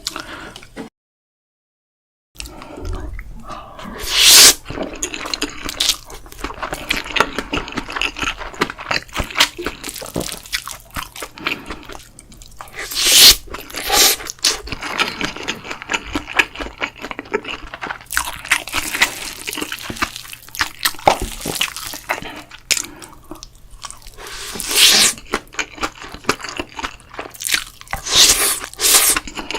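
Close-miked eating: a person chewing and crunching mouthfuls of bibimbap in an irregular run of crackles and wet clicks, with several louder, sharper bites. It begins after a moment of dead silence about a second in.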